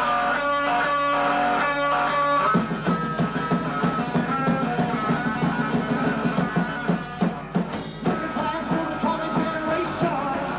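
Live post-punk rock band playing: electric guitar chords ring out with a pulsing rhythm, then the drums and full band come in about two and a half seconds in.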